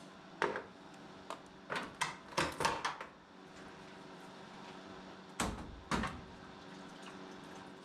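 Knocks and clatters of a car radiator being worked loose and lifted out of the engine bay: a quick cluster of sharp knocks in the first three seconds, then two more about five and six seconds in.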